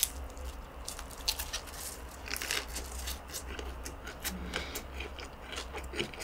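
Chewing and crunching of a mouthful of lettuce-wrapped pork: short, irregular crisp clicks and crunches, over a low steady hum.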